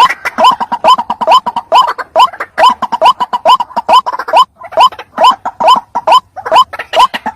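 White-breasted waterhen (ruak-ruak) calling: a fast, loud series of short rising notes, about two to three a second, played as a trapper's lure call to draw rival waterhens in.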